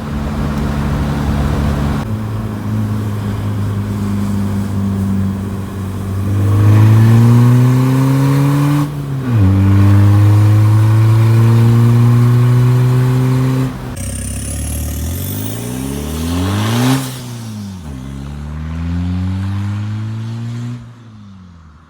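Volkswagen Jetta's engine running and being revved, in several short cut clips. The pitch climbs about seven seconds in, drops suddenly, holds steady for a few seconds, then rises and falls repeatedly in the later part.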